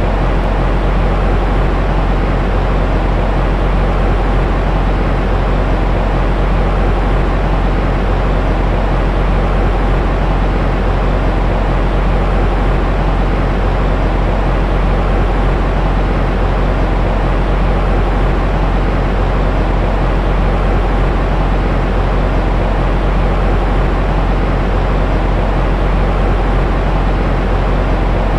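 Steady, unchanging white noise for soothing a baby to sleep, deep and rumbling rather than hissy, with no breaks or changes.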